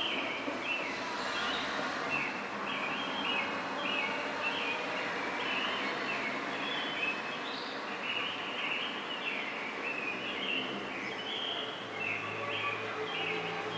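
Several birds chirping in a pre-dawn chorus: a steady stream of short, high chirps repeating several times a second, over a constant background hiss of city noise; a low hum comes in near the end.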